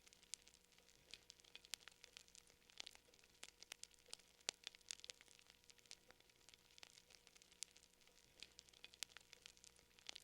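Quiet fire crackling: a wood fire giving off irregular snaps and pops, a few louder ones standing out over a soft hiss.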